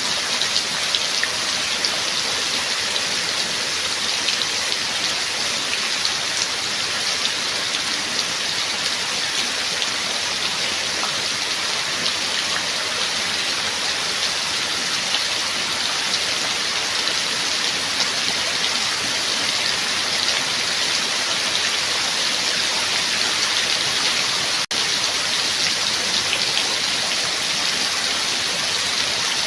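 Rain falling steadily: a dense, even hiss flecked with countless small drop clicks. A split-second dropout breaks it about five seconds before the end.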